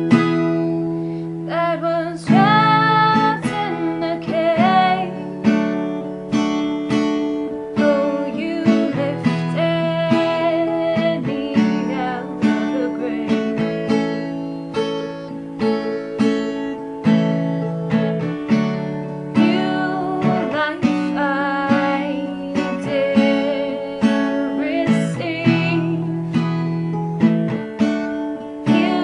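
Acoustic guitar strummed in a steady chord rhythm, with a woman singing over it in places.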